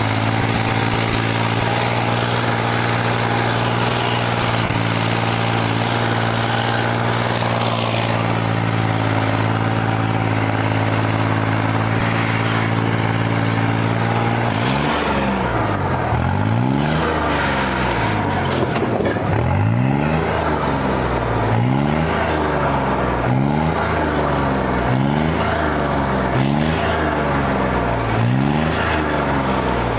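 Tractor diesel engine running at a steady speed, then from about halfway revved up and down over and over, roughly once every second and a half.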